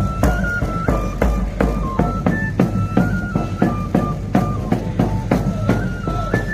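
Traditional pipe-and-tabor music: a three-hole pipe plays a high stepping melody over a steady run of drum strokes, about four to five a second.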